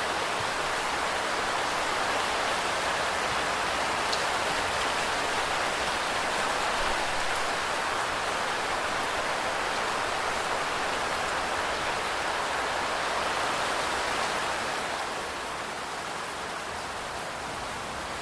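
Steady rain, an even hiss of falling drops, that grows softer and duller about fifteen seconds in.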